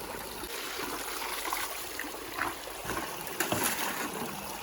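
River water running steadily with rain falling, and a few short splashes, the loudest about three and a half seconds in.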